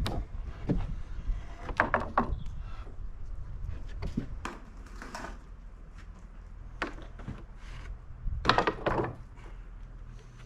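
Sawn English walnut boards and wooden stickers being handled and set down on a stack, giving scattered hollow wooden knocks and clunks. The loudest clunks come in a quick cluster near the end.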